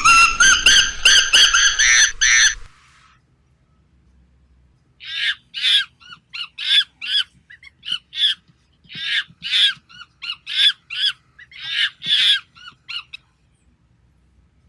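Loud burst of rapid, shrill animal calls, then after a short pause a run of short, high squawking calls, about two a second, that stop a second or so before the end.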